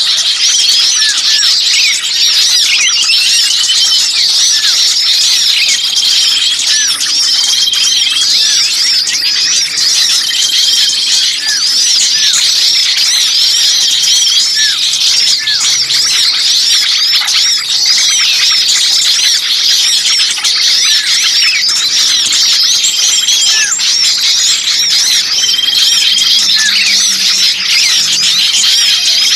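A dense, continuous chorus of many small birds chirping and squeaking rapidly at a high pitch, with short whistled notes repeating every second or two. It is a bird-lure recording of agitated small birds, in the style of a trapped ('kejepit') bird and its flock scolding, played to draw in other birds.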